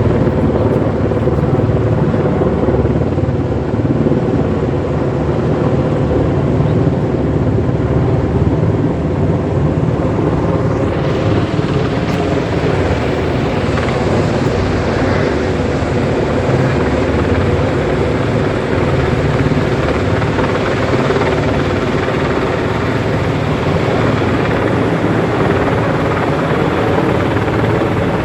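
Helicopter running steadily: a loud, unchanging rotor and engine sound with a fast, even beat.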